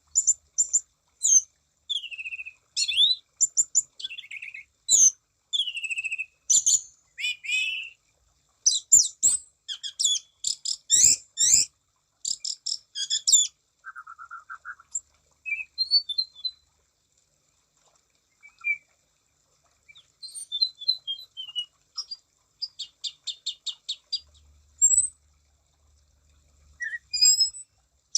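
Anis cendana thrush singing a varied, rapid song of high whistled phrases and trilled, chattering notes, broken by short pauses.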